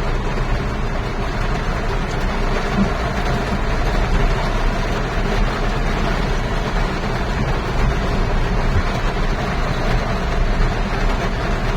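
Hyundai Grand i10 Nios car in heavy rain: a steady, even rumble and hiss of the running car and the falling rain blended together.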